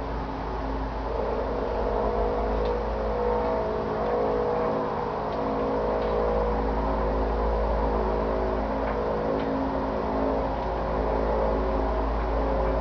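A sustained, unexplained droning sound, the kind circulated as a 'strange sound in the sky': several steady pitched tones layered over a low hum. It swells a little about a second in and then holds steady.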